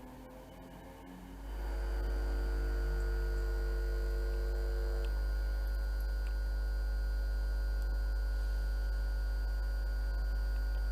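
A steady low hum with several steady tones above it that sets in abruptly about a second and a half in; some of the middle tones drop out about five seconds in.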